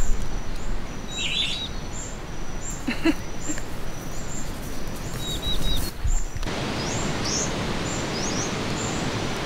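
Wild birds calling: one repeats a short high note at an even pace while others chirp now and then, over a steady outdoor hiss that grows louder about six and a half seconds in.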